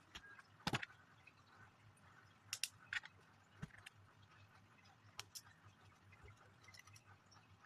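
A few sharp plastic clicks and taps of Lego pieces being handled and pressed together, over quiet room tone.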